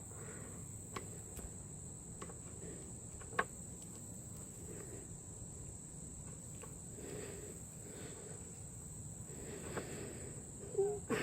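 Steady high-pitched cricket trill, with faint rustling and a few small clicks from hands working a synthetic winch rope splice.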